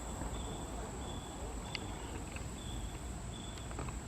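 Summer insect chorus: a steady high-pitched drone, with a shorter, lower call repeating about once a second.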